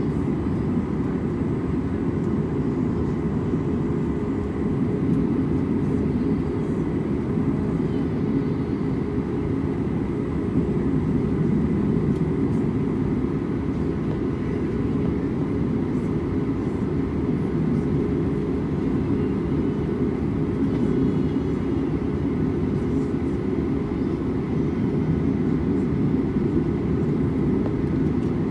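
Jet airliner running, heard as a steady low rumble that neither rises nor falls, with faint steady whines above it.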